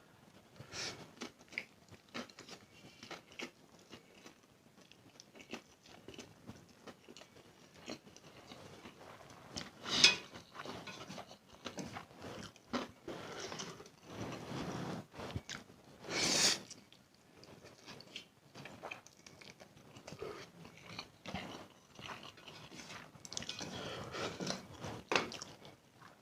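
Close-miked mouth sounds of a person chewing instant noodles: many small wet clicks and smacks, with two louder noisy bursts about ten and sixteen seconds in.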